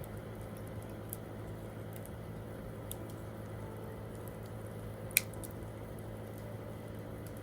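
Wood fire crackling, with small scattered ticks and one sharp loud pop about five seconds in.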